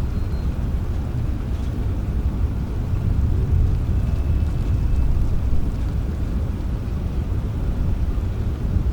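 Steady rain with a deep, even rumble underneath and little high hiss.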